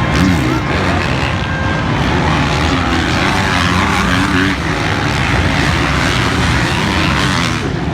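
Several motocross bike engines racing together, their pitch rising and falling as the riders rev and shift.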